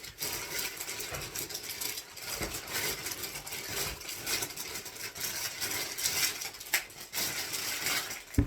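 Electric balloon inflator running, blowing air into a 16-inch latex balloon with a rushing hiss and some irregular clicks.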